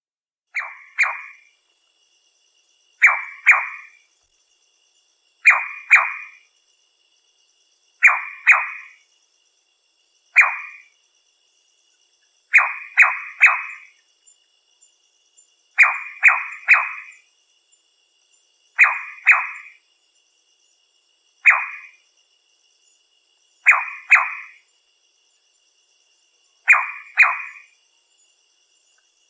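Nightjar calling: short notes that drop sharply in pitch, given singly or in quick pairs and triplets, repeated about every two and a half seconds, over a faint steady high-pitched trill.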